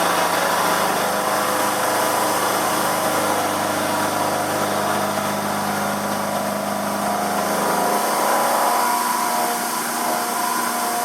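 Emco F1 CNC milling machine running, its 12 mm four-flute carbide cutter roughing the top face of a cast aluminium casting at 1500 RPM under mist coolant. A steady machine whine with cutting noise; the tone changes about eight seconds in, when the lowest hum drops away.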